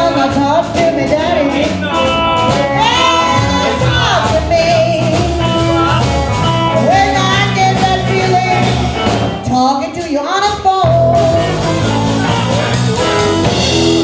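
Live blues-rock band playing an instrumental passage: a lead line of bent, wavering notes over a steady bass and drum groove.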